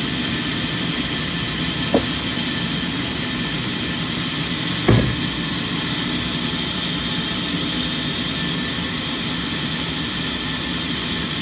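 Sawmill machinery running steadily, a constant mechanical hum, with two sharp knocks, about two and five seconds in.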